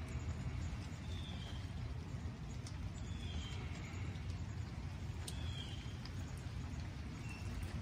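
A bird giving short high chirps, four of them spaced a couple of seconds apart, over a steady low rumble, with a few faint ticks.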